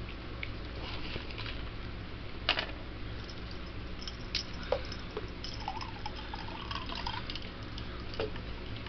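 Liquid poured into a glass, with a few sharp clicks along the way.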